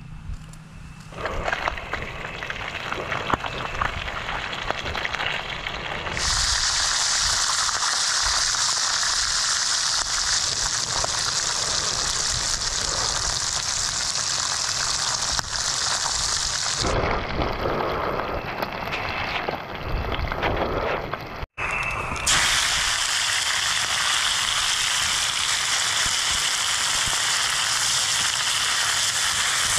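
Fish fillets frying in hot oil, a loud steady sizzle and crackle. It grows louder about six seconds in, drops back for a few seconds after about 17 seconds, and returns just as loud.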